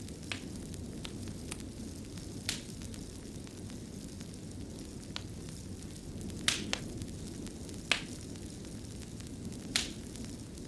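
Wood fire burning in a fireplace: a steady low rumble broken by scattered sharp crackles and pops, the loudest about six and a half, eight and nearly ten seconds in.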